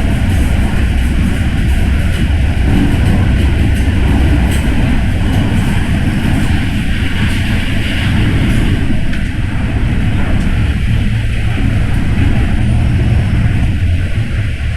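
MTR M-Train electric multiple unit running along the track: a steady, loud low rumble of wheels on rail and traction noise, with a few faint clicks.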